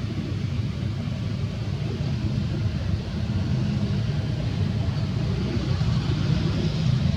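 A steady low rumble that grows slightly louder toward the end.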